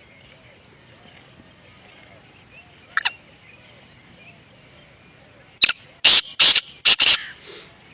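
Black francolin calling: one short harsh note about three seconds in, then a loud, harsh phrase of about five notes in quick succession near the end. A thin, steady high tone runs beneath.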